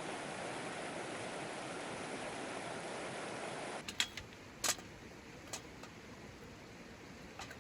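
Steady rushing of flowing water, which cuts off abruptly a little under four seconds in. A few sharp clicks and knocks follow over a quiet background.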